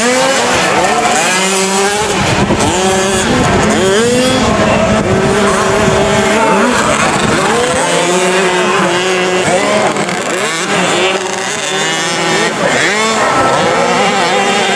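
Several 50cc two-stroke motocross bikes racing together, their engines revving high and dropping back again and again, the rising and falling pitches of the bikes overlapping.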